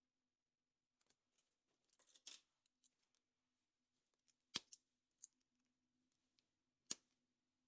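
Hands handling a chocolate surprise egg and its plastic toy capsule: light rustling, then two sharp clicks about two seconds apart.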